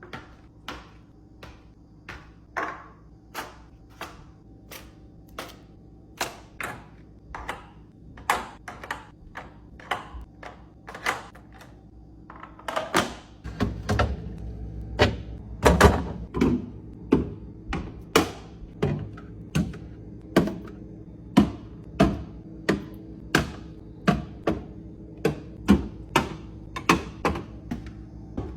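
Items being set down one after another on fridge shelves and against each other: a steady run of sharp thunks and clicks, about one or two a second, over a low steady hum. The knocks grow louder and busier about halfway through.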